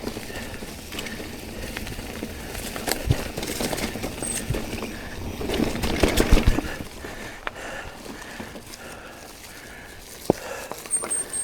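Mountain bike being ridden over a dirt trail: tyre noise and the bike rattling and knocking over bumps, loudest about halfway through.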